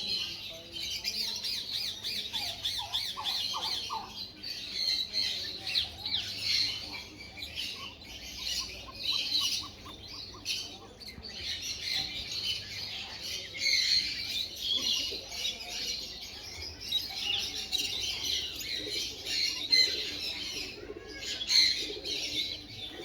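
Sun conure squawking and chattering almost without a break, in shrill, rapid calls.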